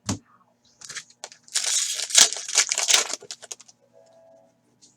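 A trading-card pack's foil wrapper being torn open and crinkled by hand: a short knock at the start, then about three seconds of irregular tearing and crackling that dies away.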